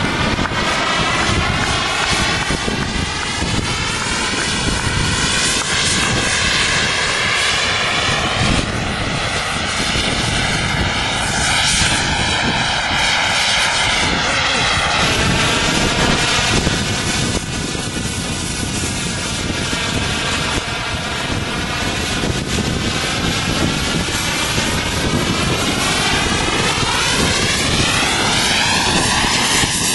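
RC jet model's engine running steadily as the model hovers. Its rushing sound swells and sweeps slowly up and down as the model shifts position.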